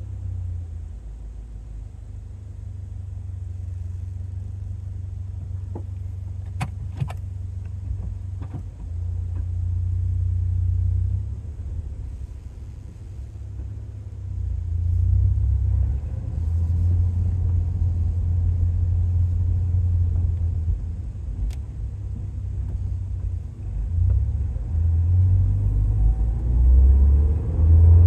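2023 Toyota GR86's 2.4-litre flat-four running through a Fujitsubo A-R catback exhaust on a drive: a deep, low exhaust drone that swells and eases with the throttle, climbing in pitch near the end as the car accelerates. A few sharp clicks about seven seconds in.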